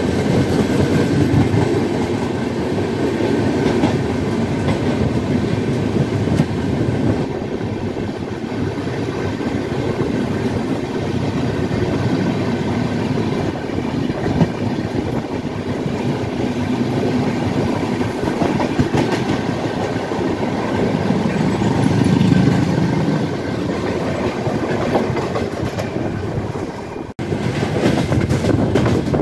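Passenger trains running at speed side by side, heard from an open coach door: a steady rumble and rattle of wheels on rail with some clickety-clack. The sound briefly drops out near the end.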